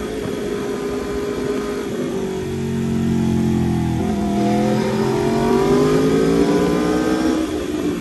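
Aprilia RSV4 RR's 65-degree V4 engine heard from on the bike while riding: revs hold and ease off for the first few seconds, then climb steadily for about three seconds from around four seconds in, dropping back near the end.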